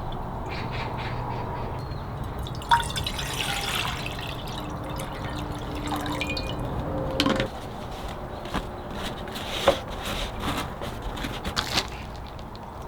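Water sounds, dripping and trickling, with scattered sharp clicks and knocks; the sharpest knocks come about 3 s in and near 10 s.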